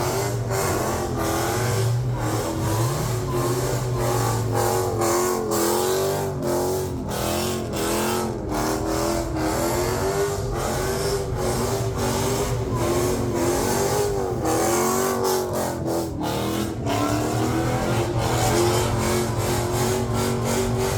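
Car engine held at high revs during a burnout, its pitch wavering up and down throughout, with frequent crackles.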